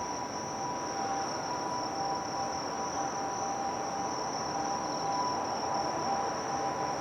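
Insects chirring in one unbroken high drone over a steady background rumble, with two faint steady mid-pitched tones.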